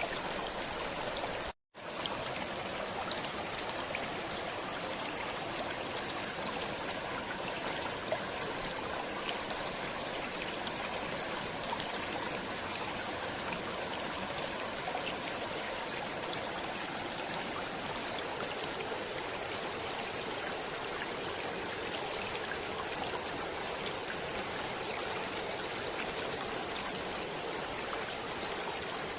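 A stream flowing, a steady rush of water that cuts out completely for a split second about a second and a half in.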